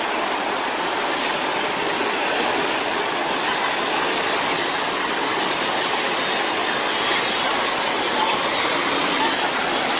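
Steady rush of fast-flowing floodwater in a river.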